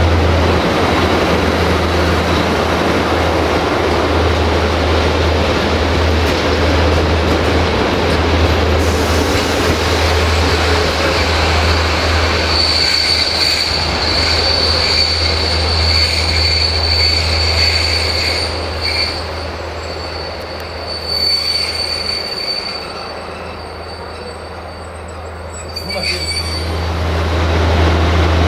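A diesel locomotive runs past hauling passenger coaches, its engine giving a steady low hum. From about halfway through, a steady high-pitched squeal from the coaches' wheels rises over it as the train draws in. The squeal stops abruptly near the end, and the engine is heard louder again.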